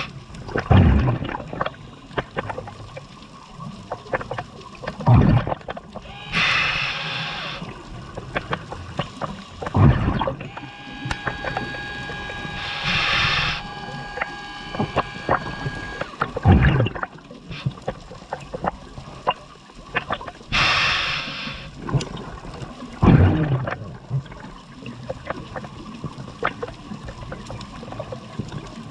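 Scuba diver breathing through a regulator: a hissing inhale three times, and between them low, gurgling rushes of exhaled bubbles about every six seconds. A faint steady whine is heard for a few seconds in the middle.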